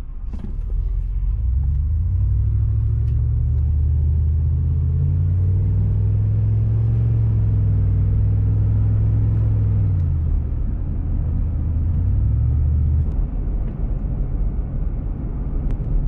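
Dodge Ram 1500's 4.7 L V8 engine pulling under load as the truck accelerates. The engine note builds from about two seconds in, eases off around ten seconds, then pulls again until about thirteen seconds. It runs evenly, without the skipping and bucking of a misfire, on freshly replaced spark plugs.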